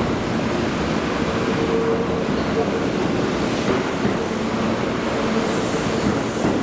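Train running: a steady rushing rumble of wheels and air, with a faint steady hum underneath.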